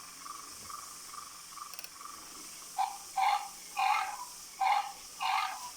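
A pet dog making a run of short, rhythmic noises, five in quick succession starting about three seconds in, after a faint pulsing tone. This is the weird noise, said to sound like a pig.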